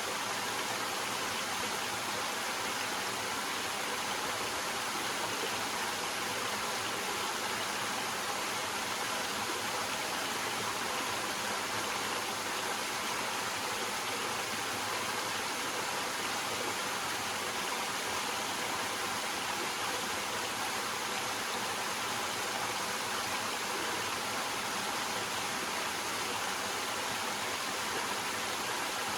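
Small waterfall splashing over rocks into a stream: a steady, even rush of water with no breaks.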